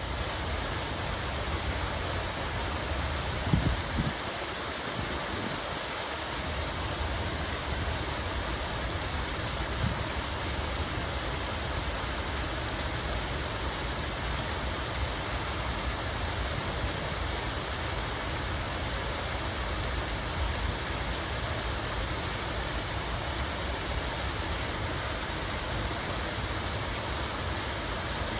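Running water, a steady, even rush of falling or flowing water. A few brief low thumps stand out, about three and a half seconds in and again near ten and twenty seconds.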